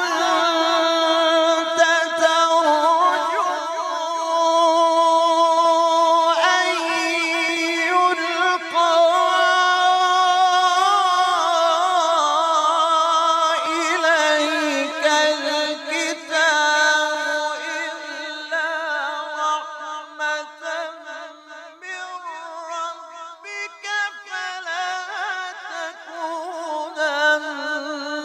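A man's voice chanting Quranic verses in tajweed style: long drawn-out melodic phrases with wavering, ornamented held notes. It grows softer and more broken in the last third.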